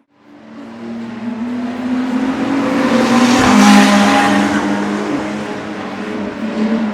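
Ferrari race cars passing at speed. The engine sound swells in, is loudest about three and a half seconds in, where the engine note drops in pitch as the cars go by, and stays loud as more engines follow.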